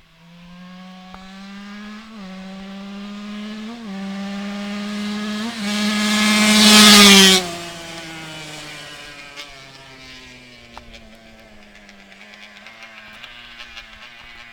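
Suzuki RM125 two-stroke motocross bike accelerating hard past the listener, shifting up three times as it comes closer. It is loudest about seven seconds in, then its pitch drops as it goes by and the sound fades away.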